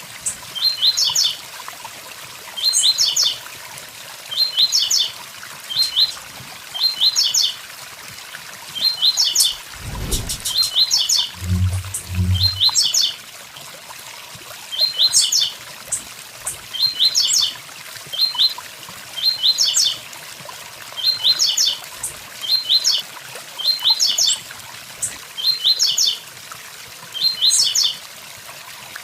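Blue-black grassquit (tiziu) singing its short 'tui tui zel zel' phrase over and over, a quick cluster of high sharp notes about every second or so, over the steady rush of a waterfall. About ten seconds in there is a low thump, followed by two short low hums.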